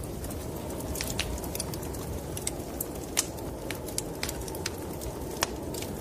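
Wood fire crackling in a fireplace, with irregular sharp pops, the loudest about three seconds in and near the end, over a steady low rumble of snowstorm wind.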